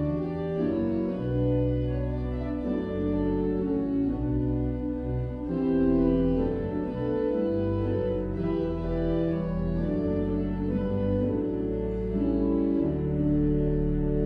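Organ music: slow, held chords over a sustained bass line, changing about every second, in a hymn-like style.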